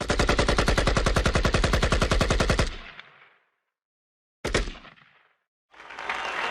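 Dragon Ball anime fight sound effect: a rapid barrage of sharp hits, about ten a second, lasting nearly three seconds. A single hit follows about a second later, and a noisy rush begins near the end.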